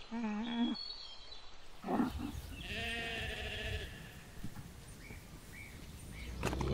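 Sheep bleating: a short bleat about two seconds in, a longer wavering bleat just after it, and another bleat starting near the end. At the very start, a short wavering hum from an alpaca.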